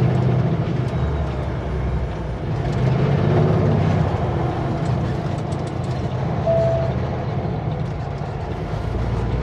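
Kenworth W900L semi truck's diesel engine running steadily, heard from inside the cab with a low drone during a slow left turn.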